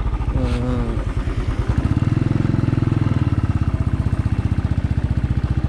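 Motorcycle engine running steadily under way, its rapid exhaust pulses close to the microphone.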